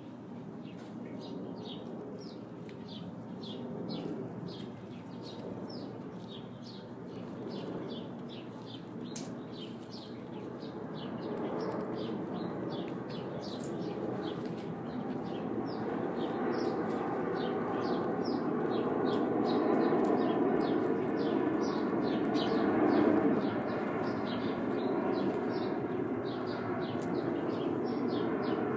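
A bird chirping over and over, short high chirps at about two a second, over a rushing background noise that grows louder from about ten seconds in.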